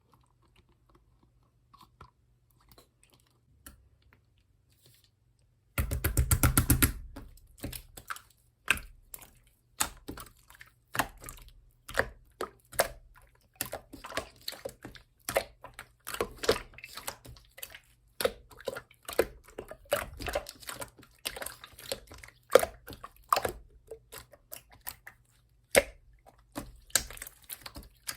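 Pink clear slime being worked by hand: after a few faint clicks, a loud, dense run of crackling clicks about six seconds in, then irregular sharp wet clicks and pops, several a second, as the slime is pressed and folded.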